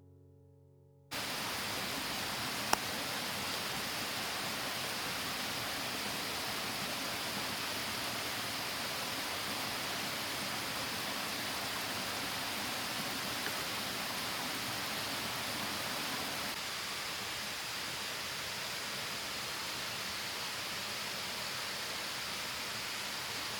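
Steady rush of falling water, most likely the waterfall, starting abruptly about a second in as faint music ends, with one sharp click about three seconds in.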